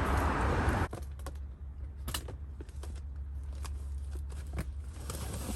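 Items being handled and rummaged through in a box: scattered light clicks and knocks, over a steady low rumble.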